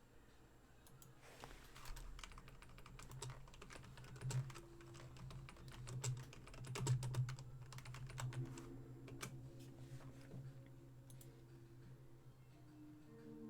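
Typing on a computer keyboard: a faint run of key clicks, with a steady low hum underneath.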